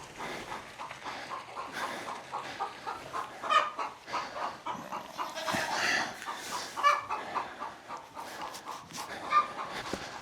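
Poultry clucking: many short calls repeating throughout, a few of them louder.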